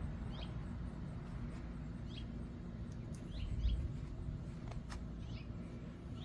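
Bird chirping: short, high chirps that fall in pitch, repeating about once a second over a steady low hum.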